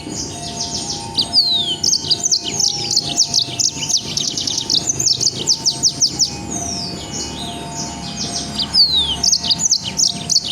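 A songbird sings a loud, dense run of fast, sharp high notes: rapid clicking strokes mixed with quick downward-sliding whistles, repeated without pause. This is the 'nembak' (shooting) style of song used as master song for training cage birds.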